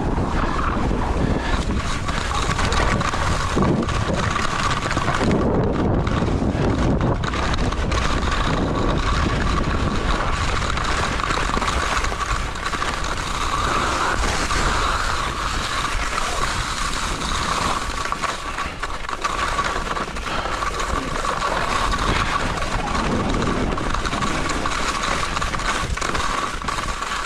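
Steady rushing noise of wind on the microphone, heavy in the bass, with a faint steady whine running under it.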